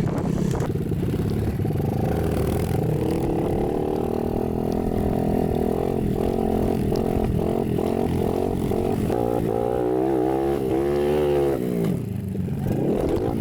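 Motorcycle engine running and being revved, its pitch climbing and falling, with quick up-and-down revs in the last few seconds before it drops back.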